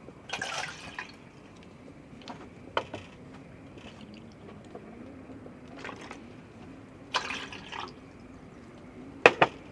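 A person eating: a few short, wet slurping or sipping sounds, with two sharp clicks near the end.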